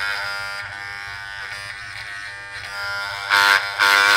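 Wahl hair trimmer running with a steady electric buzz, the noise the customer complained of. It grows louder in two surges about three seconds in.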